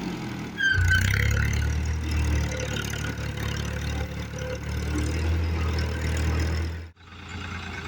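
Tractor diesel engine running steadily, getting louder just under a second in. Near the end it breaks off abruptly and a quieter engine sound follows.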